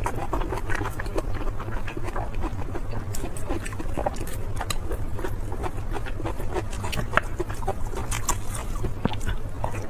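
Close-miked eating: wet chewing and mouth smacking, with many small irregular crunches and clicks over a steady low rumble.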